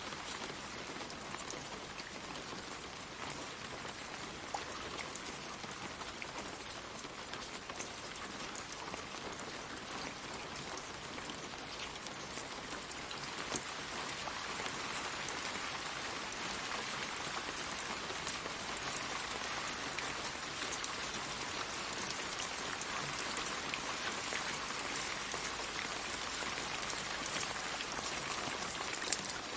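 Steady rain falling on leaves, a continuous patter with individual drops ticking through it, growing a little heavier about halfway through.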